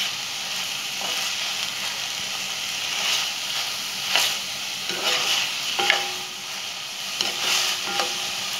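Chicken strips, capsicum and carrot sizzling as they are stir-fried on a high flame in a heavy black pot. A plastic spatula scrapes and tosses them several times over the steady sizzle.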